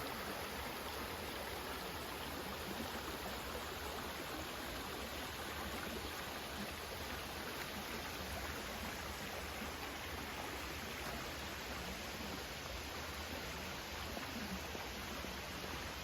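Steady rush of flowing river water, an even unbroken hiss with no change in level.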